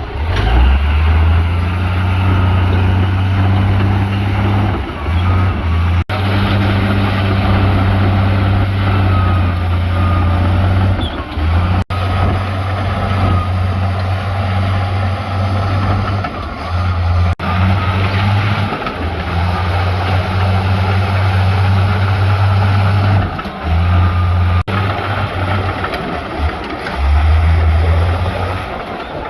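Diesel engines of heavy earthmoving machines running, a strong low drone that breaks off abruptly and resumes about every six seconds.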